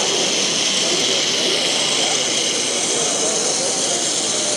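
Steady rushing background noise of a busy exhibition hall, with faint chatter of voices mixed in.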